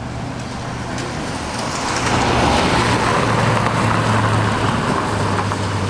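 A motor vehicle's engine running close by, a steady low hum, with the vehicle's noise swelling about two seconds in as it comes nearer.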